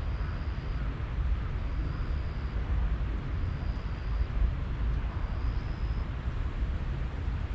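Steady rushing of a mountain stream just below a waterfall, with a deep, even rumble. A faint, thin high note repeats four times, about every second and a half.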